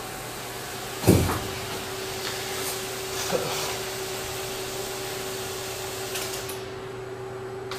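Small engine of a single-engined rotary-wing micro air vehicle running steadily at low throttle on a test stand, a steady hum with a hiss over it. A sharp knock comes about a second in, and the high hiss thins near the end.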